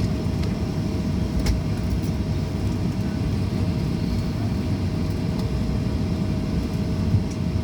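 Steady low rumble with a constant mid-pitched hum inside the cabin of a parked Boeing 737-800 before engine start, with a few faint clicks.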